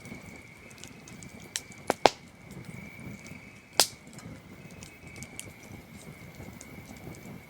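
Campfire crackling, with a few sharp pops, the loudest about two seconds in and another near four seconds. Underneath runs a steady, unbroken trill of crickets.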